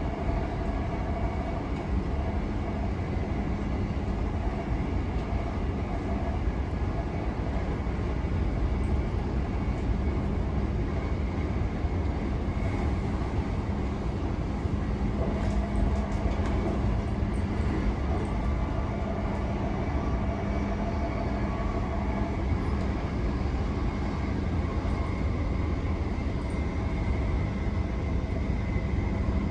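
Electric passenger train running at speed, heard from inside the carriage: a steady rumble of wheels on track with faint motor whine tones that fade in and out.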